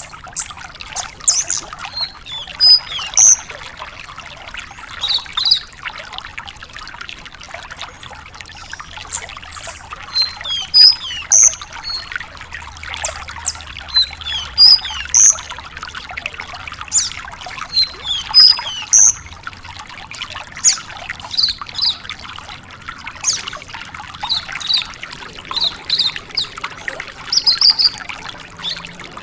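Branjangan lark singing a long, varied song of quick chirps, trills and short sweeping notes, with a steady hiss like trickling water beneath it.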